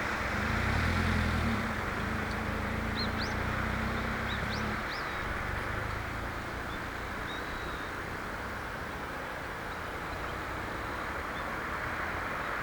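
Steady distant road-traffic noise, with a vehicle's low engine hum in the first few seconds. Over it, a few short, thin, upward-sweeping call notes about two to five seconds in, the 'hit' calls of a male Daurian redstart.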